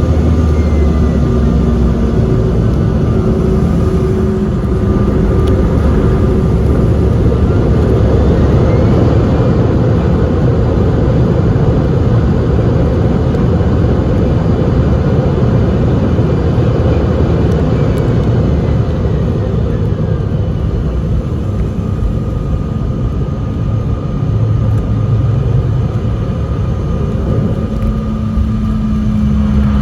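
Airliner engines heard from inside the cabin: a steady, loud rumble with a thin high whine that slides down, then up, then down again in pitch.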